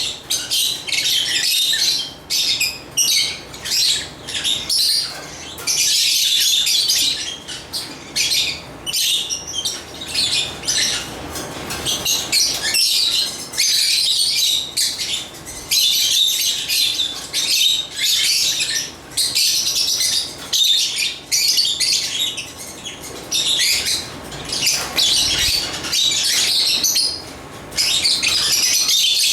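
Agapornis lovebirds chirping and chattering, rapid high-pitched calls in dense bursts with short breaks between them.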